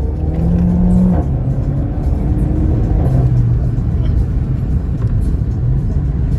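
Cabin sound of a Renault Mégane RS under way: a steady low rumble from its 1.8-litre turbocharged four-cylinder engine and the road, with music playing over it.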